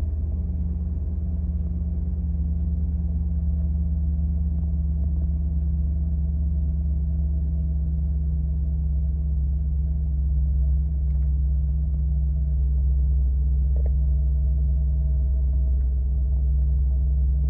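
2013 Porsche Panamera Turbo S's 4.8-litre twin-turbo V8 idling steadily just after a cold start, at a fast idle of about 1,000 rpm, heard from inside the cabin as a deep, even rumble.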